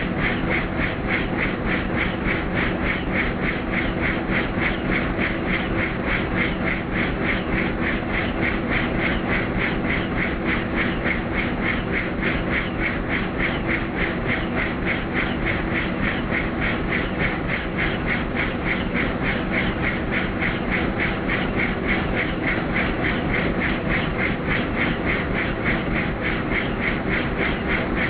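Helicopter in flight: the rotor blades chopping in a fast, even beat over a steady engine hum.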